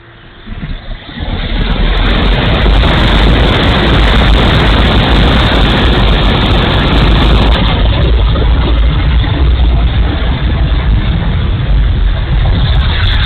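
Strong gusty wind buffeting the microphone: a loud, rough rumble that comes up sharply about a second in and stays, drowning out everything else.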